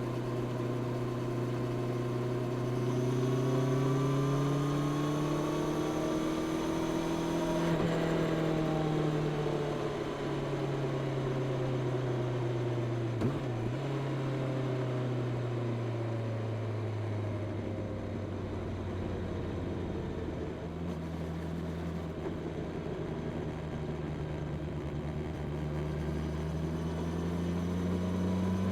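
Honda CB650R's inline-four engine through its stock exhaust, heard from the moving bike. The revs climb for about five seconds, then fall slowly for about twelve as the throttle is rolled off, hold low for a while, and climb again near the end.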